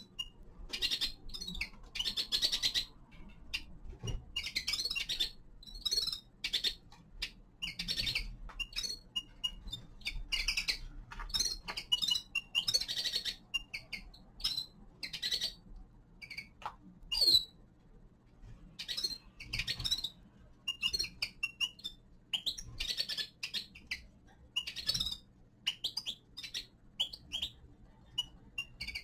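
Small finches chirping and twittering, with short calls and snatches of song following one another with brief gaps.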